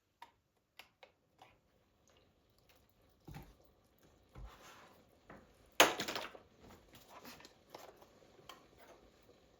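Household objects being handled: a few light clicks, two dull knocks, and one louder sharp knock with a short ring about six seconds in, followed by small scattered clatters.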